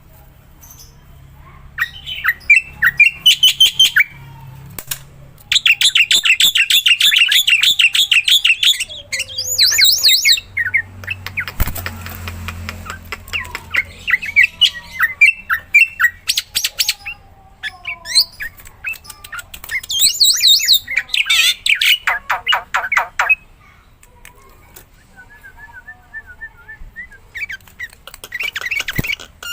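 Black-winged myna (jalak putih) in full song, gacor: loud bouts of fast, repeated notes, about six bursts of one to four seconds each, with short pauses between them.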